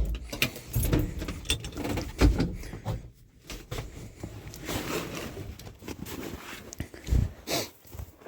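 Irregular knocks, clicks and rustles of someone handling things around the truck, with a few sharper clunks.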